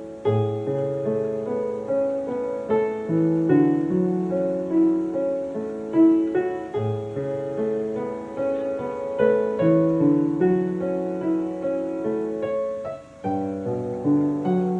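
Background piano music, a gentle melody with sustained notes over a steady accompaniment, briefly dropping away about 13 seconds in before resuming.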